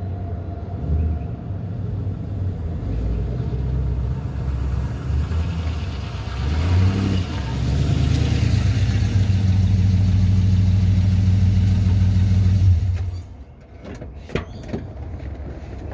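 Holden VZ Commodore SS ute's LS1 5.7 V8 running through a custom twin 2.5-inch catback with straight-through mufflers. The exhaust builds to a steady, loud drone, then drops away sharply near the end, followed by a few short knocks.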